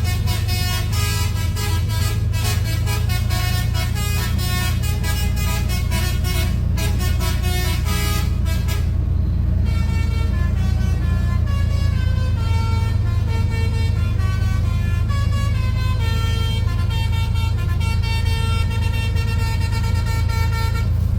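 A truck's multi-tone musical horn playing a tune of stepping notes over the steady low rumble of the truck. The first part carries a rhythmic pulse; after that the notes are longer and held.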